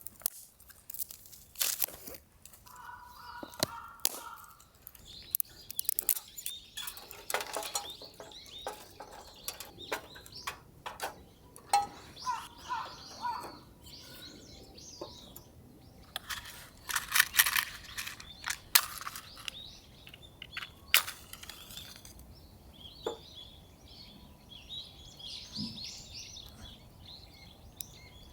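Small birds chirping off and on, most clearly near the end, among irregular clicks, knocks and rustling from hands-on camp activity.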